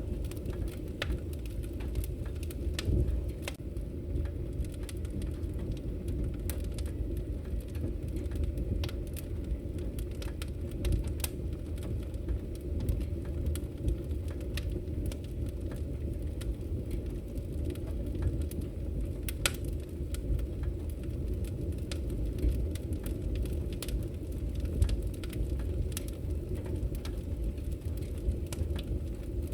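Wood fire crackling in a fireplace: frequent sharp pops and snaps over a steady low rumble of the burning logs.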